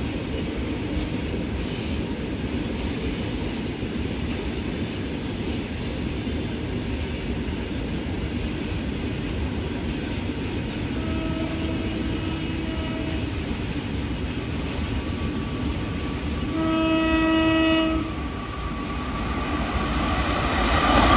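Steady rumble of a train on the line, with a locomotive horn giving short blasts about halfway through and then a louder, longer blast a few seconds later. Near the end the rush of an approaching train swells louder.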